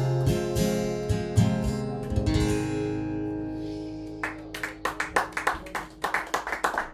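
Acoustic guitar strumming the closing chords of a song, the last chord ringing out and fading away. About four seconds in, applause starts and goes on.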